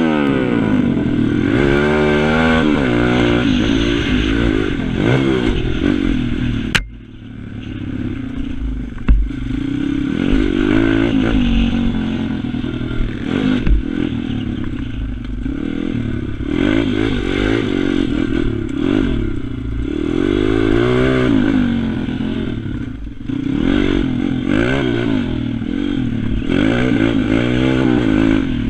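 Pit bike engine being ridden hard, its pitch rising and falling again and again with the throttle. About seven seconds in the engine note drops off sharply for a moment before building again.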